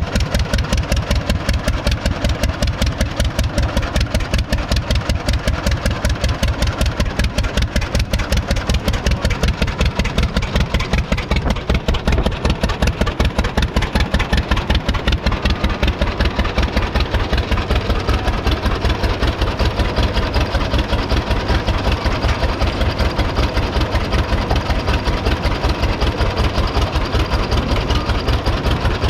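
1926 John Deere Model D Spoker's 7.6-litre two-cylinder all-fuel engine running steadily, with an even, fast popping exhaust beat that holds the same pace throughout.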